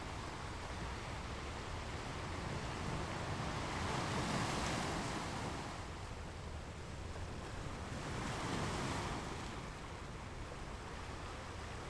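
Ocean waves washing onto a shore: a steady hiss of surf with two waves swelling and falling back, one about four seconds in and another near nine seconds.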